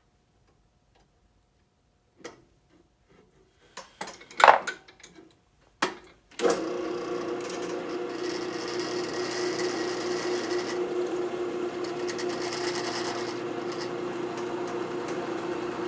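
A few knocks and clatters of small parts being handled, then an electric drill press switches on about six seconds in and runs with a steady hum.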